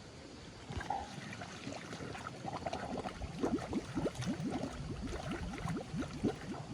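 Water gurgling, a quick run of short glugs rising in pitch, several a second, from about three seconds in.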